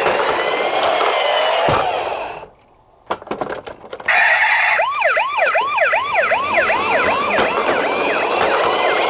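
Emergency-vehicle sirens wailing over a dense hiss, cutting out about two and a half seconds in, followed by a few clicks. A second siren starts about four seconds in, sweeping up and down rapidly, two to three times a second, then slowing to a longer wail.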